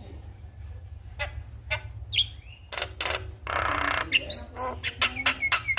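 Javan myna calling: scattered sharp notes and a short whistled sweep, a harsh rasping call about three and a half seconds in, then a quick run of short chattering notes, about four a second. A steady low hum runs underneath.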